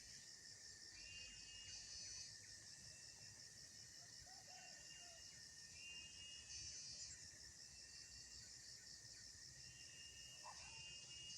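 Faint chorus of crickets and other insects: a steady, finely pulsing high trill over a continuous lower whine, with short chirps repeating every couple of seconds.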